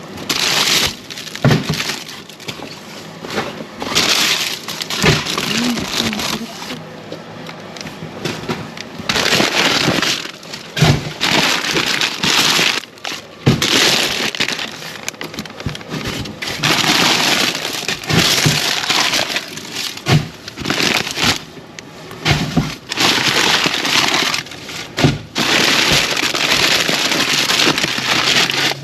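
Plastic bags and food packaging rustling and crinkling as they are rummaged through and moved, in stretches of a few seconds, with sharp knocks and clatters between them.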